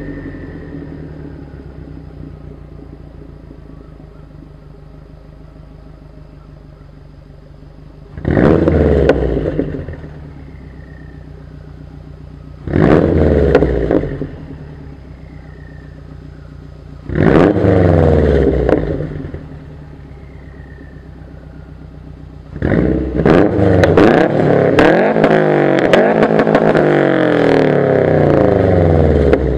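2011 Subaru WRX turbocharged flat-four with an Invidia downpipe and Q300 exhaust, idling steadily, then revved three times in short blips that fall back to idle. Near the end it is revved hard again and again for several seconds.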